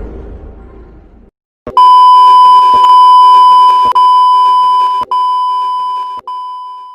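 A fading rumbling effect dies away, then a loud, long electronic beep at one steady pitch begins. The beep is broken by brief clicks and short dropouts about once a second before it ends near the close.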